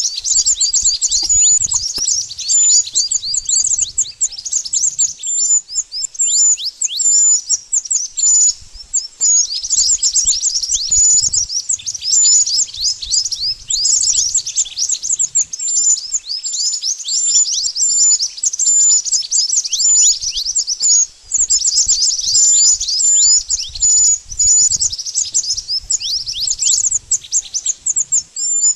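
Burung mantenan birdsong: a long run of quick, high-pitched chirps and short downward-sweeping notes, repeated many times a second almost without pause.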